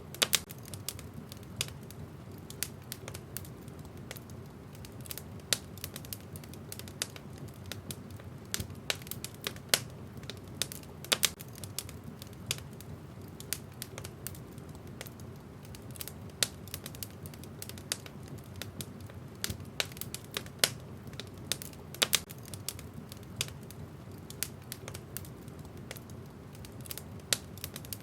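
Wood fire burning in a fireplace: irregular sharp crackles and pops of burning logs, several a second, over a low steady rumble of the flames.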